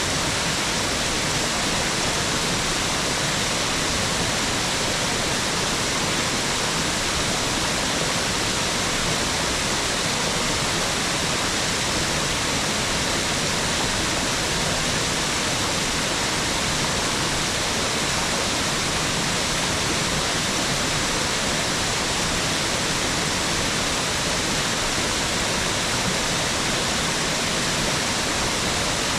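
Mountain waterfall: falling water making a steady, even rush with no breaks or changes.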